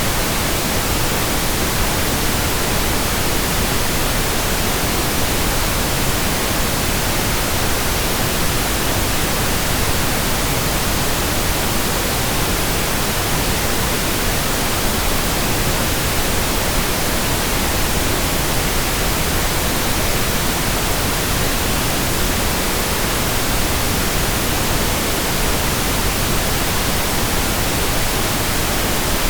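Steady synthetic pink noise: an even hiss with its weight toward the low end, unchanging throughout.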